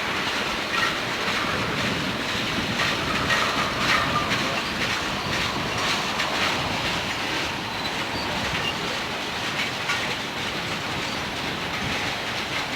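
Freight train cars rolling past, wheels clicking steadily over the rail joints, with a few short squeals from the wheels.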